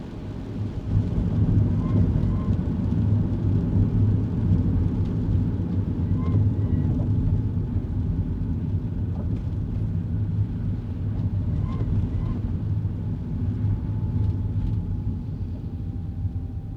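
Kei car running along the road, heard from inside the cabin: a steady low drone of engine and tyre noise that grows louder about a second in. Faint short chirps recur roughly every five seconds over it.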